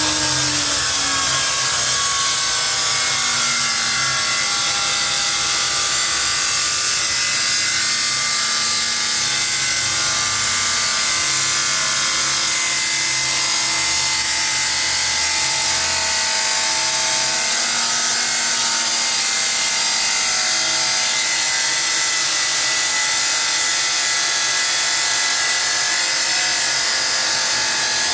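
A power tool running steadily on metal, a continuous hissing whine with no break.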